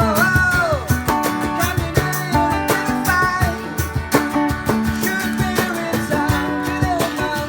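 Acoustic guitar strummed in a steady rhythm, with a voice singing the melody over it.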